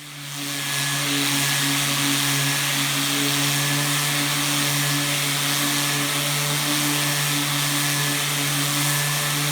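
Random orbital sander spinning up in about a second and then running steadily, a low hum under a strong sanding hiss, as its bare platen is ground against a sheet of 80-grit sandpaper taped to the bench to wear off the old hook-and-loop hooks.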